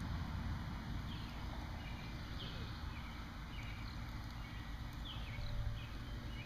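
Steady low rumble of wind on the microphone, with short, high, falling chirps scattered through it, several a few seconds apart.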